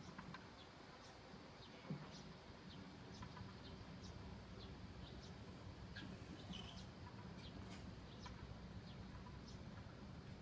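Faint bird chirping: many short, high chirps, a few each second, over a low steady hum, with a soft thump about two seconds in.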